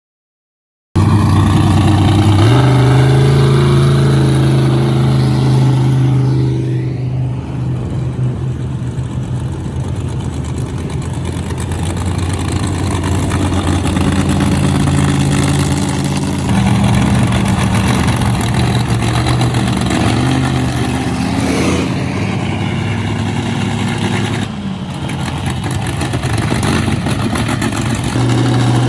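Large truck engine running, revving up and easing back several times, its pitch stepping up and down with the throttle.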